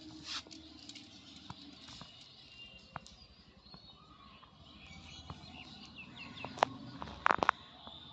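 Faint bird chirps over quiet outdoor background, with scattered sharp clicks and taps, the loudest a quick burst of clicks about seven seconds in.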